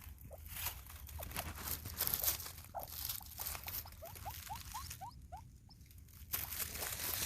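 A bird, which he takes for a peacock, giving short rising peeps: single ones here and there and a quick run of five or six about four seconds in. Light rustling of steps in the leaves around it.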